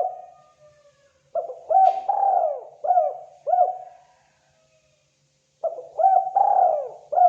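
Spotted dove cooing: one phrase of about five hoarse coos, a pause of about a second and a half, then the next phrase beginning near the end.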